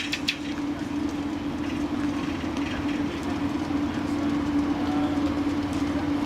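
A steady mechanical hum holding one unchanging tone over a low rumble, with a few faint clicks right at the start.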